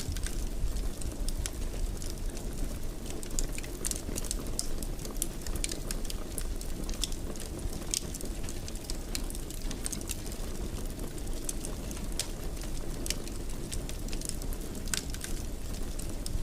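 Fireplace wood fire crackling: a steady low rumble of flames with frequent small sharp pops and snaps scattered throughout.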